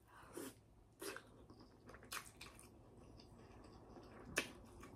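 Quiet chewing and mouth sounds of someone eating, with a few short wet smacks or clicks; the sharpest comes near the end.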